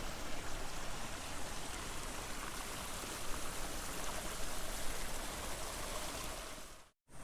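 Water running steadily in an irrigation channel, an even rushing flow. It fades out and drops to silence for a moment near the end.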